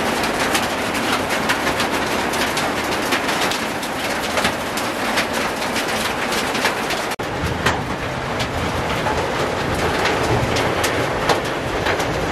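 Heavy rain falling: a steady hiss thick with sharp drop taps.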